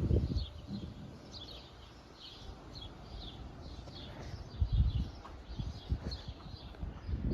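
A small bird chirping over and over, short high chirps about two a second. Low rumbling noise, such as wind or handling on the microphone, swells about five seconds in.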